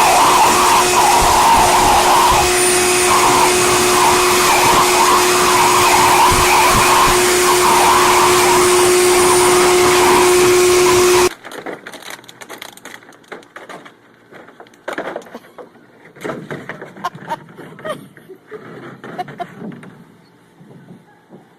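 A blow dryer runs with a steady whine and hum, then cuts off abruptly about eleven seconds in. After that come faint, scattered clicks and knocks.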